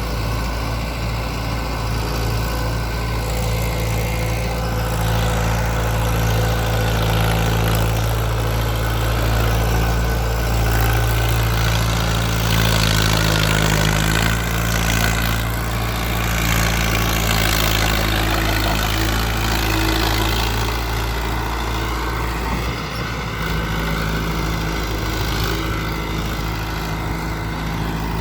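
Mahindra Arjun 555 DI tractor's diesel engine running steadily while pulling a dumper loaded with soil. The engine grows louder and rises a little in pitch through the middle, then eases back near the end.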